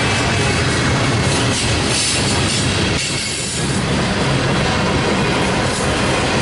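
Freight train cars rolling past, a loud, steady rumble of steel wheels on the rails.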